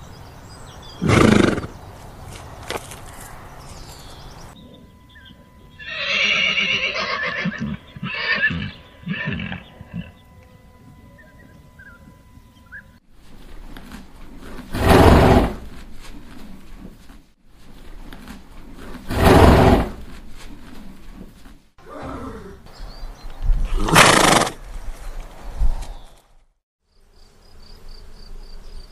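Young grey horse neighing: four loud calls of about a second each, spread several seconds apart, with a quieter run of whinnying near the middle.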